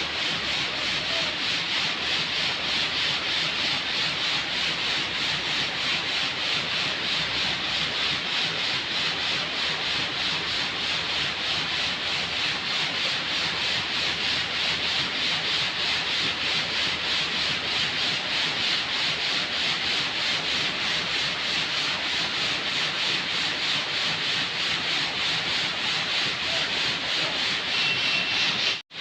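Steady rasping, scraping noise with a quick, even pulse, cut off for a moment near the end.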